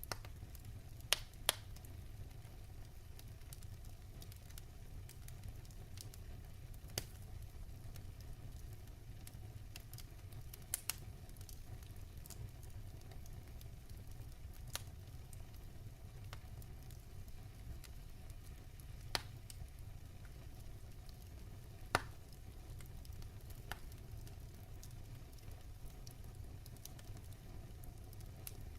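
Wood fire burning in a fireplace: a steady low rumble of flames with sharp crackles and pops from the burning logs at irregular intervals. The loudest are two pops about a second in and another a little past the middle.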